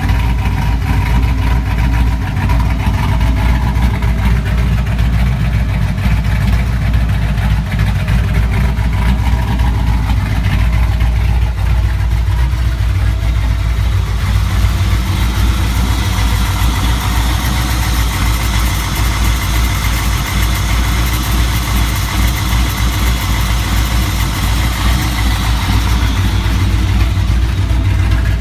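Forged 383 small-block V8 with a hot cam, long-tube headers and a Phab exhaust, idling steadily and loudly. The exhaust note turns brighter about halfway through.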